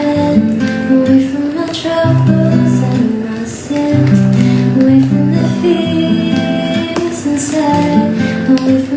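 Acoustic guitar playing chords and melody notes in a wordless passage of a cover song, with campfire crackling mixed in beneath it.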